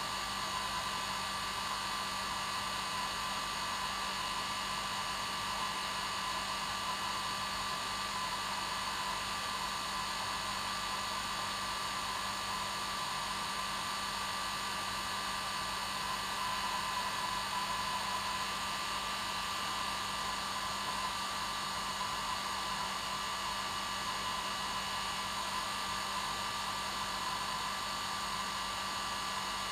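Hair dryer running steadily at one speed, a continuous whooshing hiss with a steady motor hum underneath.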